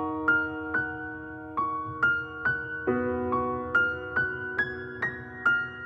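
Background music: the piano intro to a slow song, with single notes over held chords struck about twice a second, each ringing and fading.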